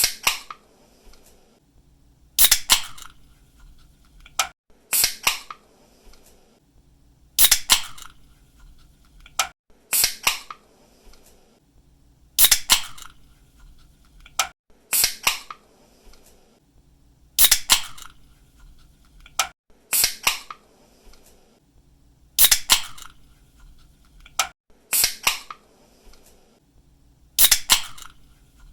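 Aluminium drink can being opened again and again: a pull-tab snaps open with a sharp click and a short hiss of escaping carbonation. This repeats at an even pace of about once every two and a half seconds.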